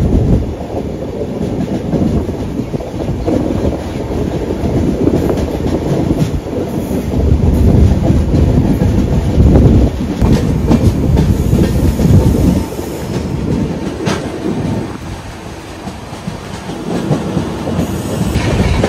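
Running noise of a passenger express's coaches at speed, heard from the open side of the coach: a steady heavy rumble of wheels on rail, with a few sharp clacks over joints and points. It eases for a few seconds in the second half, then builds again near the end.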